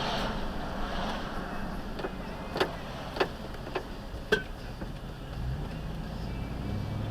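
Vehicle driving in city traffic, with steady engine and road noise. In the middle come four sharp clicks about half a second apart, and near the end a low engine hum rises and holds.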